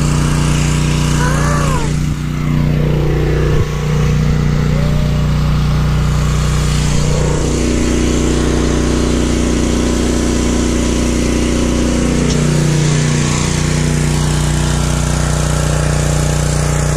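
Small gasoline engine of a pressure washer running steadily, its note shifting a few times as the load changes.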